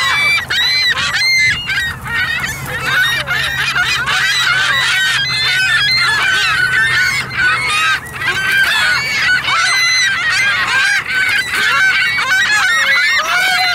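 A flock of waterfowl calling loudly, with many overlapping calls that go on without a break.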